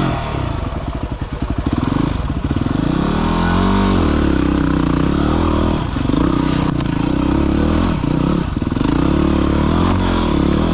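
Single-cylinder dirt bike engine running in low gear, its revs rising and falling repeatedly with throttle blips while picking through rough ground.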